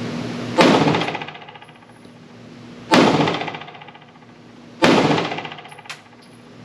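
Three shots from a PSA Dagger 9mm compact pistol, about two seconds apart, each ringing out in the indoor range's reverberation. A steady ventilation fan hum runs underneath.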